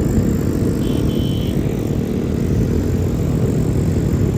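Steady low rumble of a motor vehicle running, with a brief high-pitched double beep about a second in.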